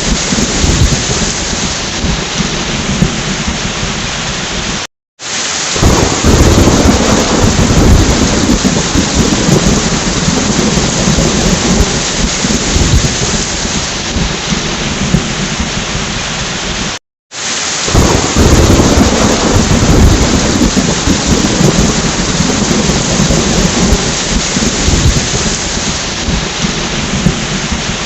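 Thunderstorm: steady heavy rain with rolling thunder, a recording looped about every twelve seconds. Each pass opens with a loud low rumble of thunder that fades into steady rain, and twice the sound cuts out completely for a split second at the loop seam.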